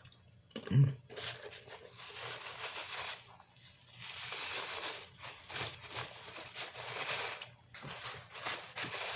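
Crinkling and crunching close to the microphone while food is handled and eaten, in a few stretches of several seconds each, with a brief hum of the voice about a second in.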